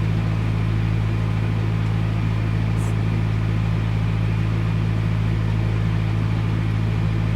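Narrowboat diesel engine running steadily at cruising revs: a constant, even drone.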